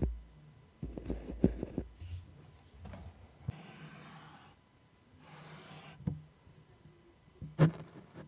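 Close-miked ASMR tapping and scratching: a quick cluster of taps with low thuds in the first two seconds, then stretches of soft scratching hiss, and two single sharp taps in the second half, the last and loudest near the end.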